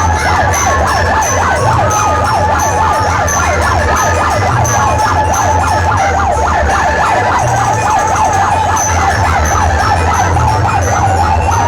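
Loud DJ sound-system track with a repeating heavy bass beat and a fast-warbling siren effect over it.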